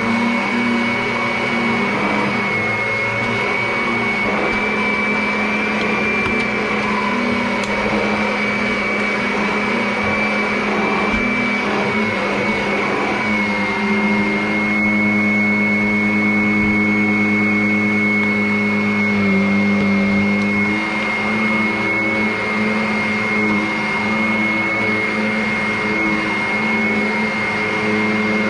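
Vacuum cleaner running steadily with a high whine over a motor hum; the hum's lower tones shift in pitch about halfway through.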